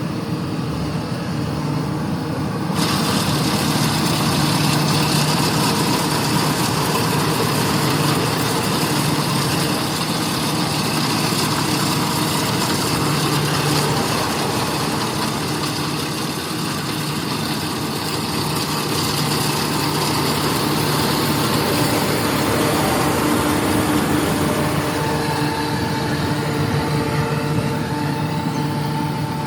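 Rice combine harvester running steadily, a constant engine hum under a wide mechanical hiss. The sound gets louder and brighter about three seconds in.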